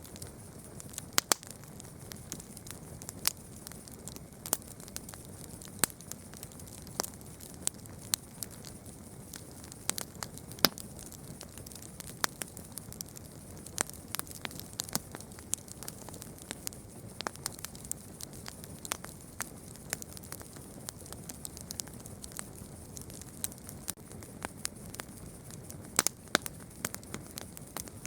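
Campfire burning: wood crackling with sharp, irregular pops and snaps, several a second, over a steady soft hiss of the flames.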